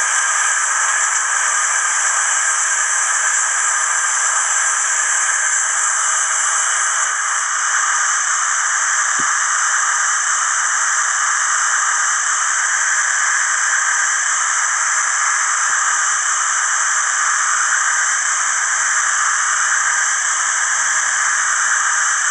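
Hornby HM7000 sound decoder playing a steam locomotive's hiss through its onboard speaker, a loud, steady blowing of steam.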